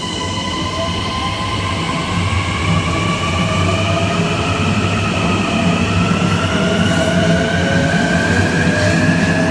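Kawasaki M9 electric multiple unit accelerating: its Mitsubishi IGBT-VVVF inverter and AC traction motors whine in several tones that climb steadily in pitch as it gets louder, over the low rumble of the wheels on the rails.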